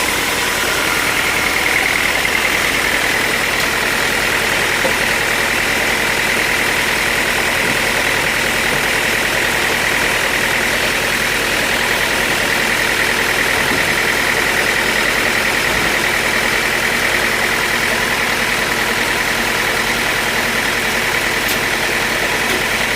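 Sawmill machinery running steadily: a constant high whine over a continuous mechanical hum.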